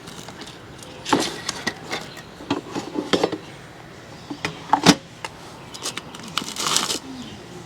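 Clicks, knocks and light clatter of food and kitchen items being handled and set down, the loudest knock about five seconds in, followed by a brief hiss near the end.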